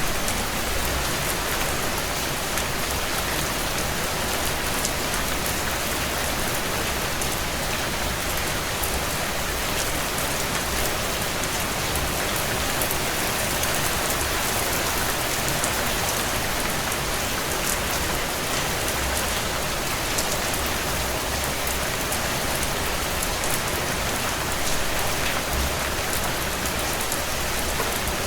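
Heavy rain falling on a tin roof: a steady hiss scattered with many small ticks of individual drops.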